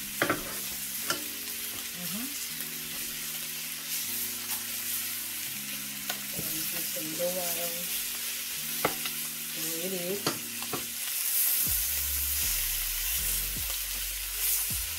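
Curry chicken pieces sizzling as they fry in a pan, with scattered clicks and scrapes of a spatula as the pieces are turned.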